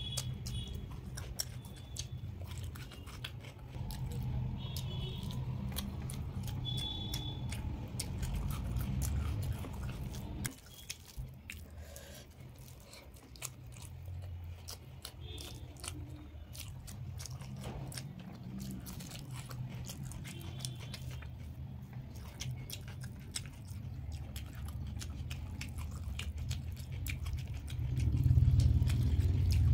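Close-miked chewing of mouthfuls of rice and curry eaten by hand, with many short wet mouth clicks and lip smacks, louder near the end.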